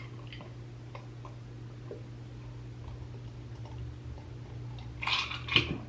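Quiet room tone with a steady low hum and a few faint scattered ticks; about five seconds in, two short hissy sounds stand out briefly.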